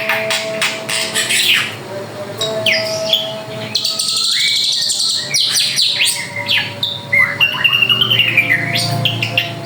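A drongo (srigunting) singing continuously: a varied run of sweeping whistles and quick chattering notes, typical of a cage bird in full song.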